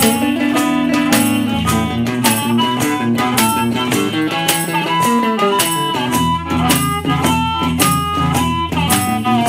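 Chicago blues band playing an instrumental passage: guitar and bass line under held harmonica notes, with a steady rattling washboard beat.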